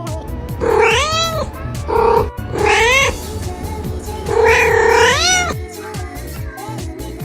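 A domestic cat meowing loudly four times, each call rising then falling in pitch, the last one the longest. Background music with a steady beat plays underneath.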